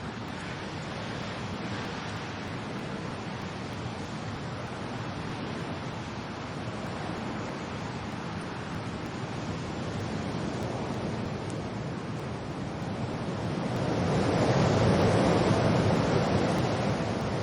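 Wind and rain: a steady hiss that swells louder in a gust near the end.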